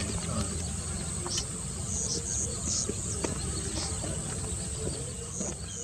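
Outdoor ambience dominated by a steady, high-pitched insect drone, with short high chirps every so often and scattered faint ticks over a low rumble.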